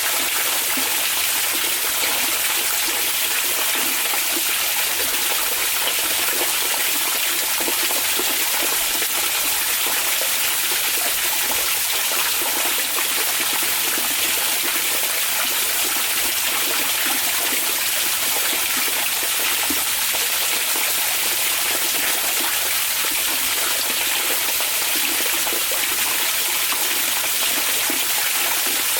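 Hot spring (onsen) water running and splashing in a steady, unbroken rush of hiss with no changes.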